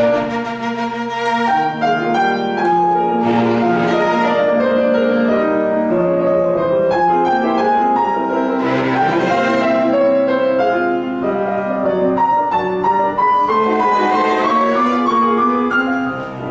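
A piano quartet (piano with violin, viola and cello) playing classical chamber music, with bowed string lines sustained over the piano.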